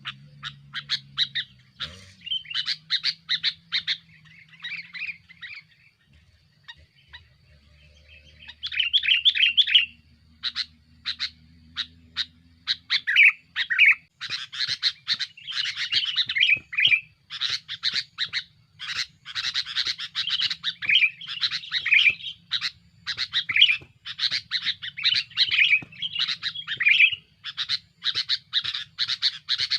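Male sooty-headed bulbul (kutilang) calling busily: quick bursts of short chirping notes, sparse at first, then almost without a break from about halfway in. It is the noisy, rival-challenging call used as a lure for wild bulbuls.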